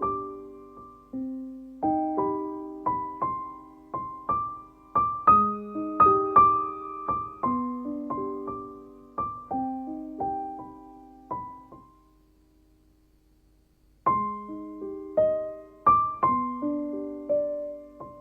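Solo piano background music, gentle notes struck one after another, pausing for about two seconds midway before resuming.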